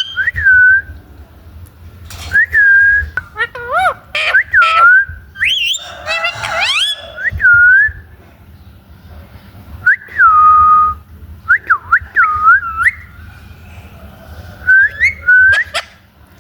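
Parrot whistling: a series of clear, swooping whistles that rise and dip, with a harsher, rougher call about six to seven seconds in.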